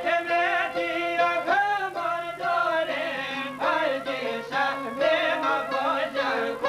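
Albanian folk song: a man sings a wavering, ornamented melody over string accompaniment.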